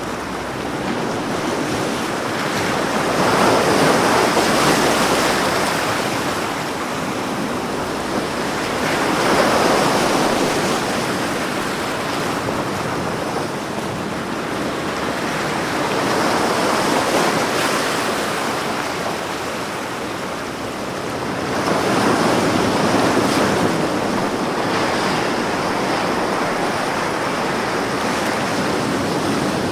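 Ocean waves breaking and washing on a shore, a steady surf sound that swells roughly every six seconds as each wave comes in.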